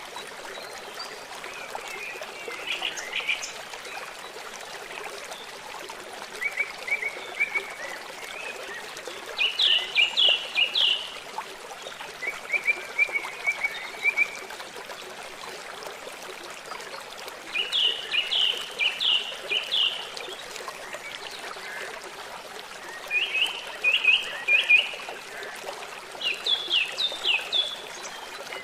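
A river flowing steadily, with a bird calling over it in short runs of quick, high chirps, seven or so times and a few seconds apart.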